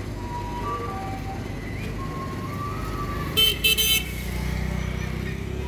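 A motor vehicle engine running with a steady low hum, and three short loud blasts, like a horn, about three and a half seconds in. A faint repeating thin tune plays underneath.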